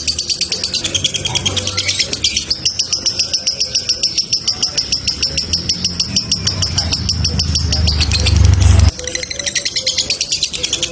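Male lovebird singing a long, unbroken chattering trill (ngekek): a fast, even run of high chirps with a sustained high note through the middle. A low rumble builds beneath it and cuts off suddenly near the end.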